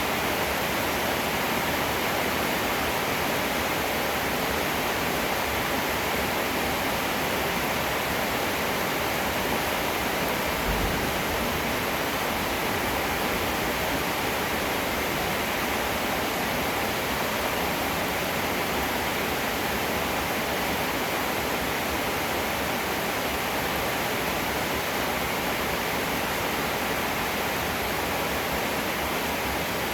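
Heavy rain falling steadily, an even hiss with no pauses. A brief low thud comes about eleven seconds in.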